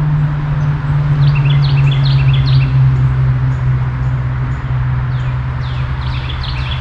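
Songbirds chirping in two quick runs of short falling notes, about a second in and again near the end, over a steady low hum.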